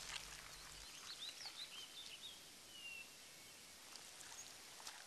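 Faint outdoor background hiss with a small bird chirping. A run of short chirps comes in the first half and one longer, slightly falling note about three seconds in.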